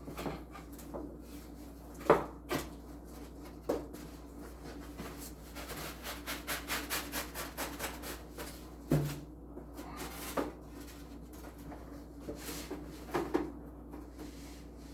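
Cardboard packaging of a bobblehead being handled and opened: scattered knocks, rubbing and clicks, with a run of quick scraping strokes, about four a second, a little past the middle.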